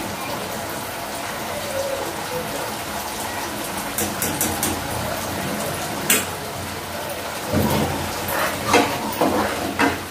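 Chicken in sauce sizzling in a steel kadai on a gas burner, a steady frying hiss. A metal spatula clinks a few times about halfway through, then scrapes and knocks against the pans more often near the end.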